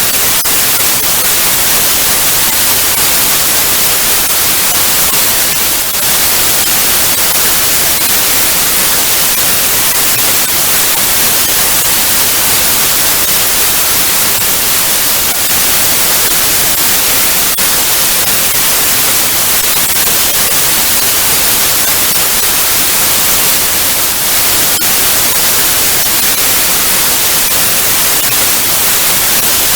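Television static: a steady, loud hiss of white noise, strongest in the high frequencies, with a few faint crackles.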